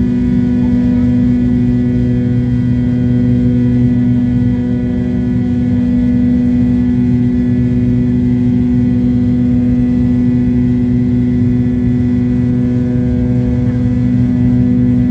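McDonnell Douglas MD-83's rear-mounted Pratt & Whitney JT8D turbofans running at a steady power setting: a loud, constant jet drone with a strong steady hum that holds one pitch throughout.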